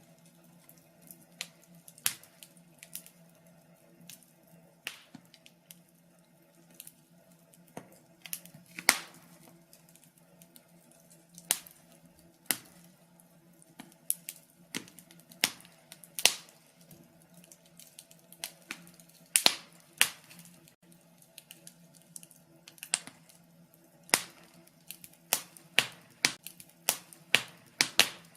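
Wood fire crackling: irregular sharp pops and snaps, sometimes several in quick succession, over a faint steady hum.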